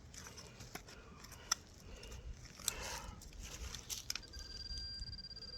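Small clicks, clinks and a brief scrape of hand-digging in stony soil with broken glass, then about four seconds in a steady high electronic tone from a metal detector starts up.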